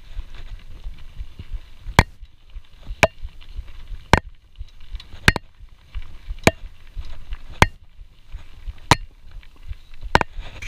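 Sharp clicks about once a second from a CamelBak hydration pack's strap and drinking hose knocking against the GoPro Hero 4 housing, over a steady low rumble.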